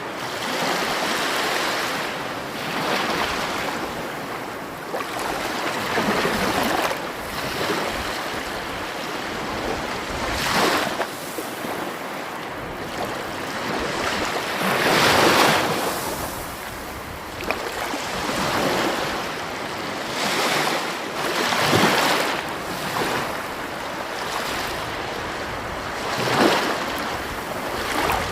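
Sea waves breaking on the shore and washing back, surging in every few seconds; the biggest wave breaks about halfway through.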